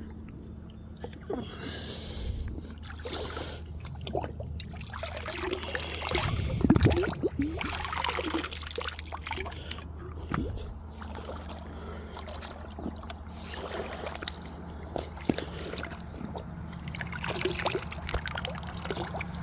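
Shallow creek water trickling, with irregular splashes and knocks from wading through it.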